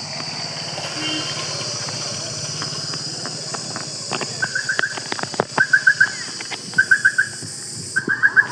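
A bird calling: short bursts of three or four quick chirps, repeated about once a second, starting about halfway through. Before that a low steady hum and a few scattered knocks.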